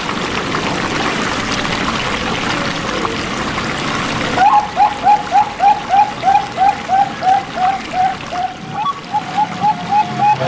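Steady trickling water for the first four seconds or so, then a zebra dove (perkutut) starts a long series of short cooing notes, about three a second, quickening a little near the end.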